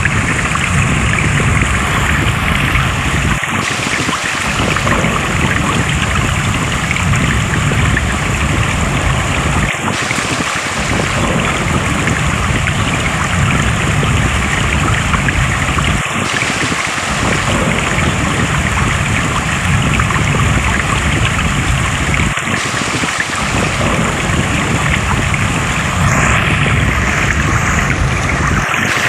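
Flowing water rushing steadily, with a brief dip in its low rumble about every six seconds.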